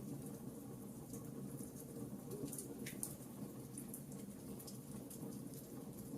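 Wood fire crackling: a steady low rumble of the flames with frequent small, sharp crackles and pops.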